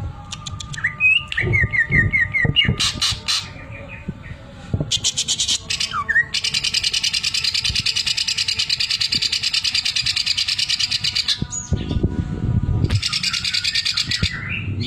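Green leafbird (cucak ijo) singing: sharp chirps and a quick series of rising whistled notes, then a long, very fast, even rattling trill of about five seconds, the bird's imitation of a sewing machine, with a shorter burst of the same trill near the end.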